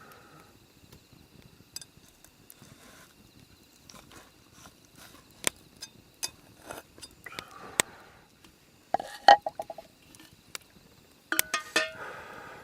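Scattered clicks and knocks of camp cookware and utensils being handled, with a short metallic ring about nine seconds in and a ringing clatter of clinks near the end.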